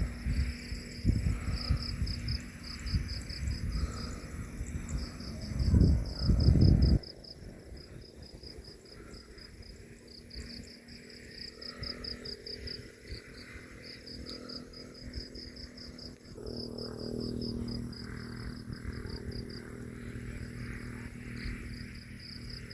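Insects chirping in rapid pulsed trains, with a steady high hiss behind them. A loud, irregular low rumble covers the first seven seconds and cuts off abruptly. About sixteen seconds in, a quieter low, steady hum comes in.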